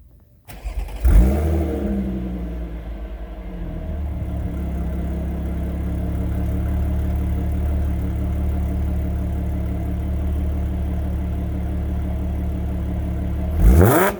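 Audi A6 with EuroCode test pipes, resonated downpipes and an AWE Touring exhaust cold-starting. It catches with a loud flare about a second in, then settles into a steady idle. Near the end it is given one quick rev.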